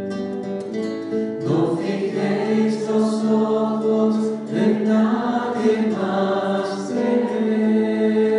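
Worship music: a choir singing over sustained accompaniment, with an acoustic guitar coming in.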